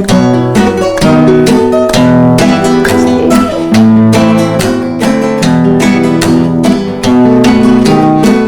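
Acoustic guitar playing an instrumental passage of quick, rhythmic strummed chords.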